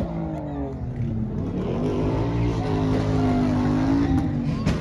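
Car engine revving: the pitch sinks, climbs back and holds steady, then drops off near the end.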